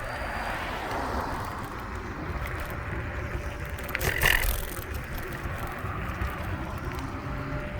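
Wind buffeting the microphone and road rumble from a Wolf Warrior electric scooter under way, with a faint steady whine. About four seconds in, a brief louder burst of noise.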